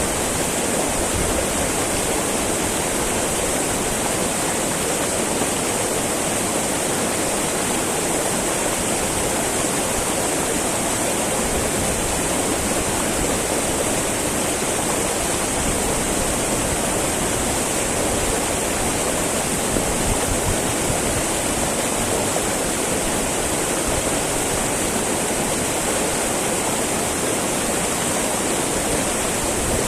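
A small mountain river babbling and rushing over rocks, a steady, even water noise with no breaks.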